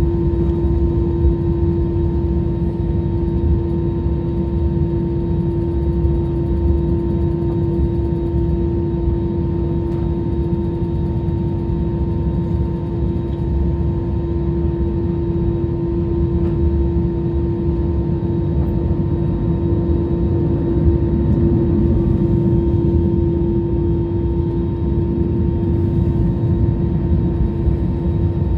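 Airliner jet engines running steadily, heard from inside the cabin as a low rumble with a constant whine.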